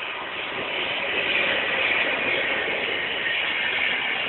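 Train running: a steady rushing noise that builds in loudness over the first second and a half, then holds.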